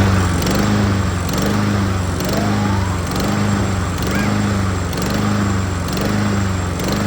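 Honda HRN216 lawn mower engine running and surging, its speed rising and falling in a steady cycle about once a second. The surging is a sign of a carburetor jet clogged by old gas, as the owner believes.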